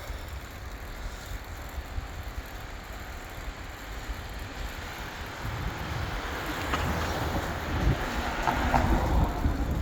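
Road noise and wind rumble on the microphone of a bicycle being ridden uphill on a road. The rumble grows louder over the second half.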